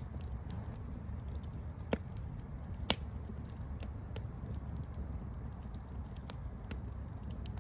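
Campfire crackling: a steady low rumble of burning wood with scattered small ticks. Two sharper pops stand out about two and three seconds in, the second the loudest.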